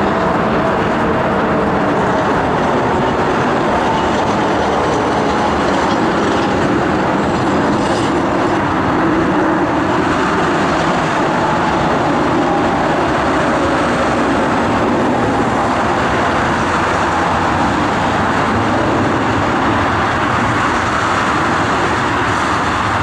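Jet engines of a four-engine Airbus A340 at take-off power, a loud steady rushing noise, with a few faint engine tones fading out in the first seconds.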